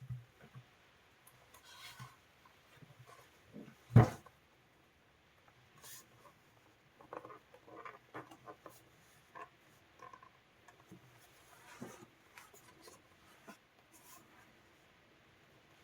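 Small clicks, taps and rubbing of parts and tools being handled during a soundbar repair, with one sharp knock about four seconds in.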